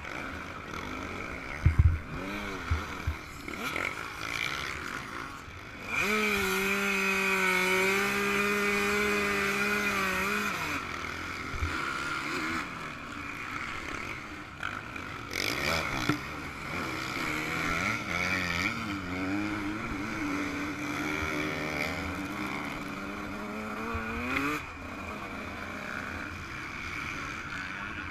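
Yamaha YZ125 two-stroke single-cylinder engine being ridden hard, its revs rising and falling through the gears. It is held at high, steady revs for about four seconds in the middle. A few sharp knocks come about two seconds in.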